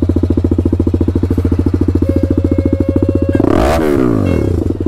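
TVS Apache RR 310's single-cylinder engine idling through an aftermarket SC Project exhaust with an even, rapid pulse. About three and a half seconds in it takes a quick throttle blip that rises and falls back to idle.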